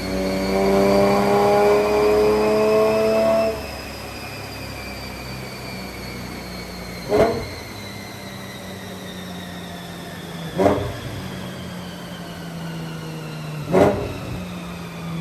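Porsche GT4 race car's flat-six running hard on a chassis dyno, its pitch rising slightly, then cut back about three and a half seconds in. It settles to a low steady idle while a high whine slowly falls in pitch as the rollers spin down, with three short throttle blips about three seconds apart.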